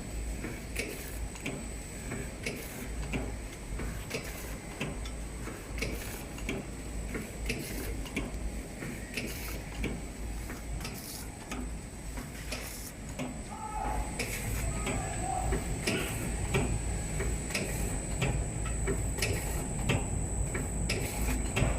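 KL-300K small-granule vertical packaging machine running, its mechanism making regular sharp clicks and knocks as it fills and seals bags, over a low hum and a steady thin high whine.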